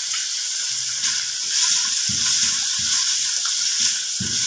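Spiced chicken cubes sizzling as they fry in a pan, with short knocks of a spoon stirring them, busier from about two seconds in.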